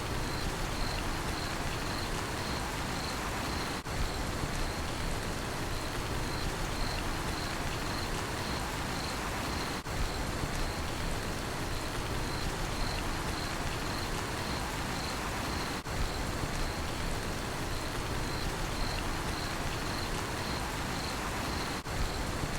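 Steady rain falling, with a cricket chirping about twice a second throughout. The rain briefly dips about every six seconds.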